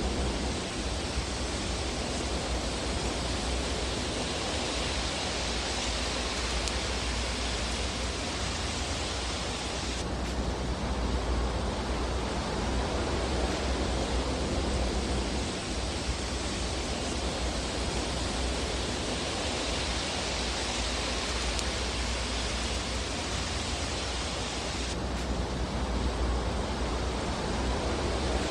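Fireplace ambience: a steady, dense hiss and rush of burning fire with a low rumble underneath, without distinct crackle pops. The texture changes abruptly about ten seconds in and again near the end.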